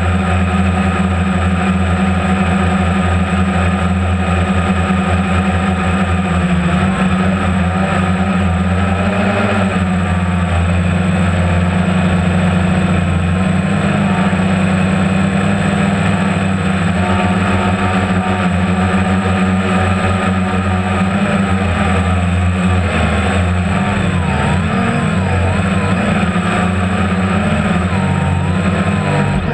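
Boat engine running steadily at a low, even speed, its pitch wavering slightly near the end.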